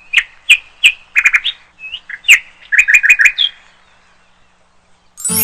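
Birds chirping: a lively series of short chirps and quick trills for about three and a half seconds, then a pause. Strummed acoustic guitar music starts right at the end.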